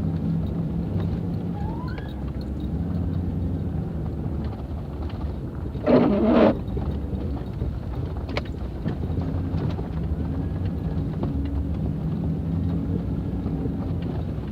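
A motor vehicle's engine running steadily with a low hum. A short, loud noisy burst comes about six seconds in.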